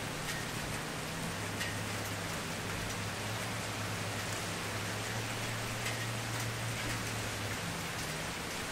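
Campfire burning with a steady crackling hiss and a few small sharp pops, over a low steady hum.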